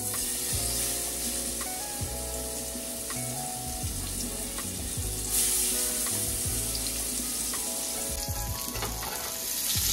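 Seasoned fresh salmon sizzling as it fries in hot canola oil and butter in a pan on high heat. The sizzle grows louder about five seconds in and again near the end.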